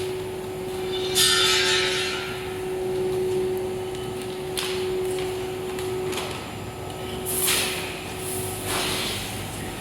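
Granule filling machine running with a steady hum, cut by hissing rushes as it fills. The longest rush comes about a second in, with shorter ones near the middle and toward the end.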